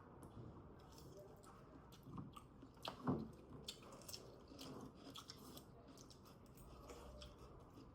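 Close-miked chewing and crunching of food: irregular soft crackles and mouth clicks, with one sharper crunch about three seconds in.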